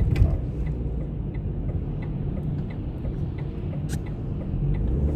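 Car running, heard from inside the cabin: a steady low engine and road rumble, with faint even ticking about twice a second and one sharper click near the end.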